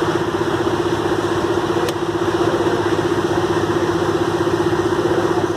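A truck engine idling steadily, its note unchanging throughout, with a faint click about two seconds in.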